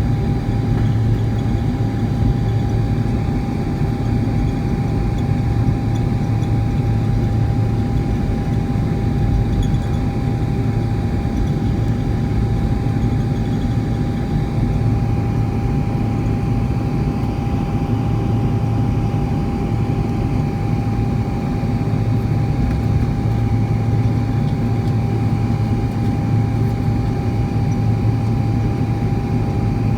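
Jet engine noise inside the cabin of a Boeing 747-400 during takeoff: a steady, loud rumble with a constant tone above it.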